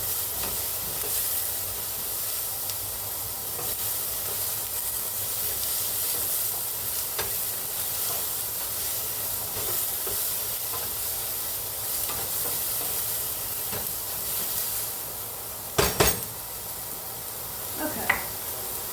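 Diced carrots, celery and onion sizzling in ghee in a pot as they soften, with a steady hiss and a few light clicks. A loud double clank about three seconds before the end.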